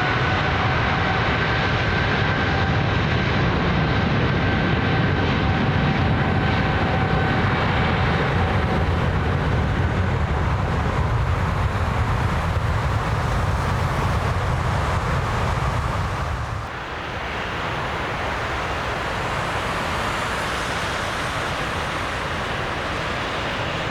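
Jet airliner's engines passing close by: a loud low rumble with a steady whine that fades away over the first several seconds, the rumble dropping off suddenly about 16 seconds in and leaving a quieter hiss.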